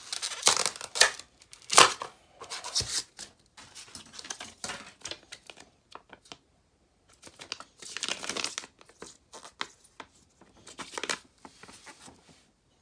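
Crinkling and rustling of a wrapper or bag being handled, in irregular bursts with small clicks and a short lull partway through.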